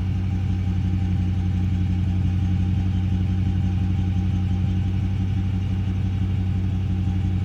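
2016 Dodge Charger R/T's Hemi V8 idling steadily through Borla Pro XS mufflers, with an X-pipe in place of the stock mufflers and the resonators removed. It is a deep, even exhaust note that holds one pitch throughout.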